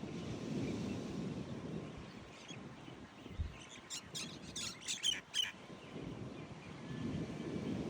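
A bird gives a quick run of about seven sharp chirps in the middle of the stretch, over a steady low rush of wind and surf.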